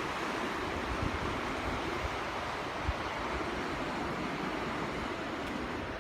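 Steady rush of water from a waterfall, with wind rumbling on the microphone.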